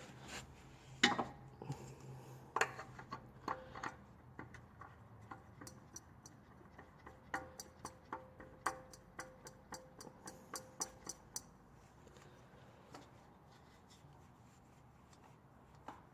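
Faint small clicks, taps and rubbing of hand work as a new oil filter is handled and spun onto its mount by hand, with a run of quick irregular clicks in the middle.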